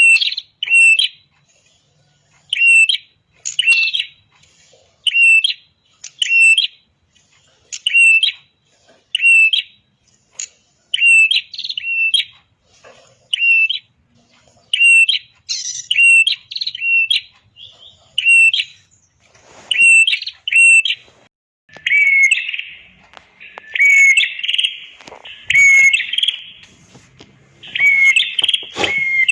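Red-headed prenjak repeating short, sharp chirping call notes about once a second, in the high-energy 'gacor' style used to tutor caged birds. In the last several seconds the calls come lower, faster and overlapping, as a busier burst of chirping.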